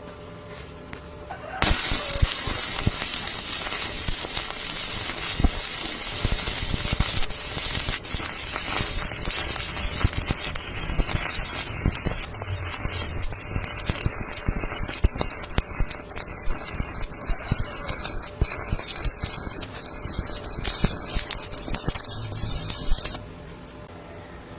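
Electric welding arc crackling steadily with frequent sharp pops as a bead is laid. It starts abruptly about a second and a half in and cuts off shortly before the end, leaving a low hum.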